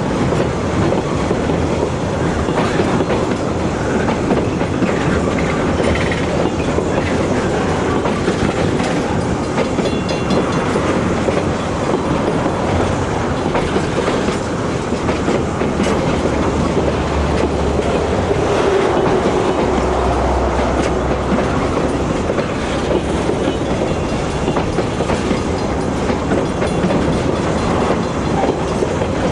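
Freight train passing, its wagons rolling steadily along the track with wheels clattering on the rails.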